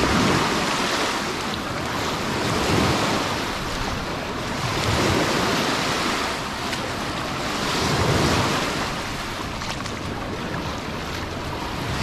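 Sea waves breaking and washing up on the shore, swelling and fading every few seconds, with wind on the microphone.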